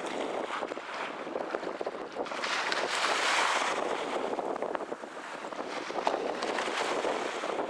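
Wind gusting across the microphone as a steady rushing hiss, swelling to its loudest about three seconds in and easing after.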